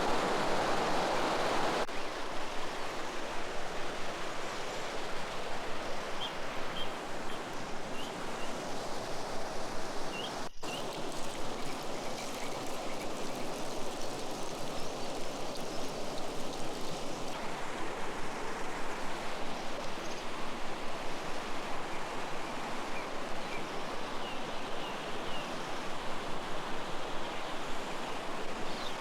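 River or stream water flowing steadily.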